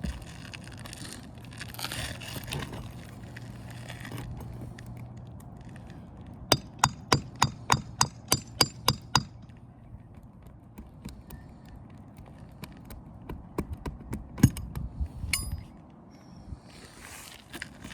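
A quick run of about ten metallic hammer strikes, roughly four a second, with a ringing clink: a roofing hammer and flat bar working loose the nails holding asphalt shingles on a roof hip. A few scattered knocks and scrapes follow a little later.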